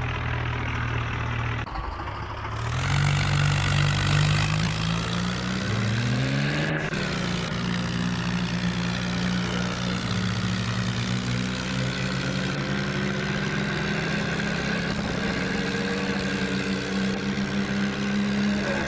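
Tractor engine revving up, its pitch climbing about two seconds in and again around six seconds, then holding steady at high revs.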